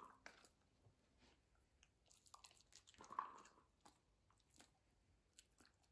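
Faint chewing and crunching, irregular small clicks and crunches, with one brief louder crunch about three seconds in.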